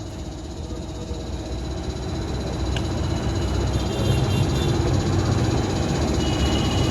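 A motor vehicle's engine running, getting steadily louder, with a low rumble.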